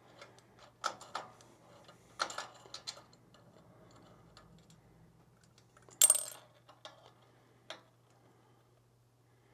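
Light metallic clinks and clicks of a carburetor float bowl and small parts being handled, with one sharper clink about six seconds in. A faint steady low hum runs underneath.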